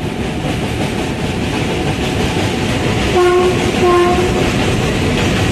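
Electric freight locomotive hauling a goods train across a steel girder bridge, a steady loud rumble of the wheels and wagons, with two short blasts of the locomotive horn a little over three seconds in.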